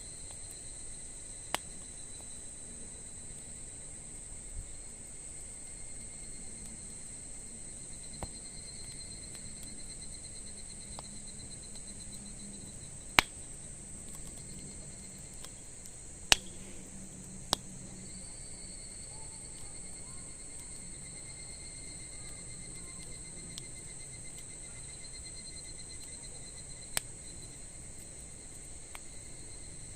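Insects trilling steadily with a high, even chirr, while a wood campfire gives a handful of sharp crackling pops, the two loudest near the middle.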